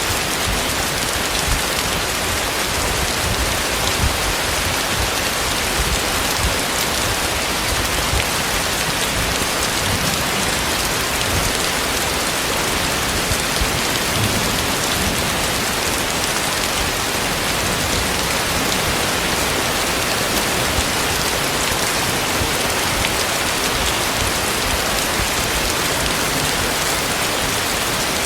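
Heavy rain falling steadily: a loud, dense, even hiss with no let-up.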